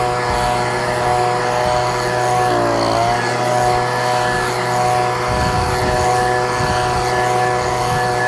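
Echo PB-2620 handheld leaf blower's two-stroke engine running steadily. Its speed dips briefly about two and a half seconds in, then picks back up.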